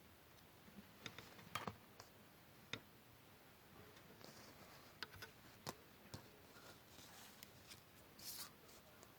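Faint handling noise of paper craft work: scattered sharp clicks and ticks with short rustles of paper. There is a brief cluster of clicks about a second and a half in, and a short rustle near the end.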